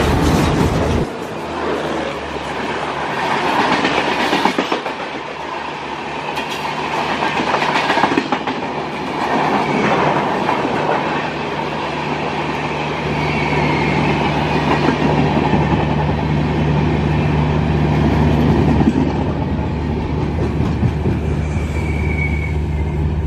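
Tejas Express passenger train rolling past, its wheels clattering over rail joints. A thin squeal rises over the rolling noise near the end.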